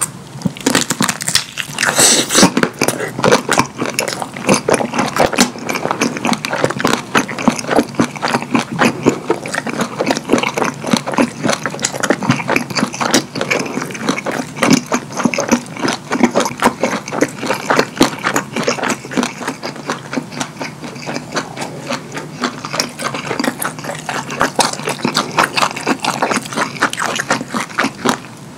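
Close-miked mouth sounds of a person biting into a kielbasa sausage coated in cheese sauce, then chewing it: a loud bite about two seconds in, followed by a long, dense run of wet chewing and smacking clicks.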